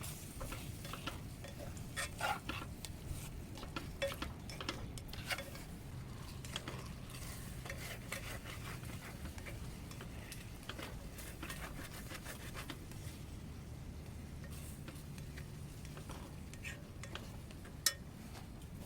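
A utensil stirring food in a metal cooking pot, scraping and clacking irregularly against it, over a low steady rumble. There is a single sharp knock near the end.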